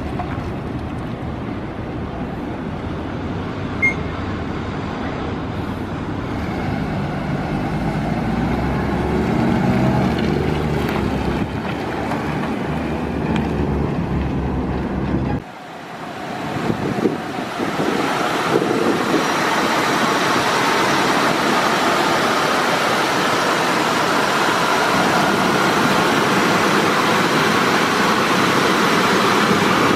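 A 1997 Ford E-Super Duty box truck's engine is running, its pitch rising and falling a few times. About halfway through, the low rumble drops away abruptly and a steady rushing noise takes over, slowly getting louder.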